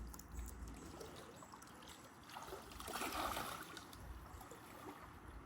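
Faint trickling, flowing water that swells for about a second partway through.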